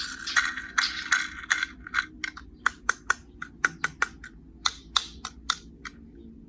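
Die-cast toy cars and a hard plastic carry case being handled. A scraping clatter in the first second or so gives way to a run of sharp clicks, a few per second, which thin out near the end.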